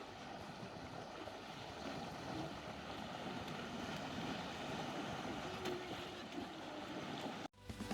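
Steady outdoor noise of wind on the microphone and running water, with faint distant voices. It cuts out abruptly near the end, and music with drums starts.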